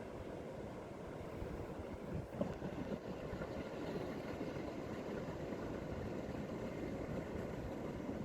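Wind buffeting the microphone: a steady low rumble, with a brief knock about two and a half seconds in.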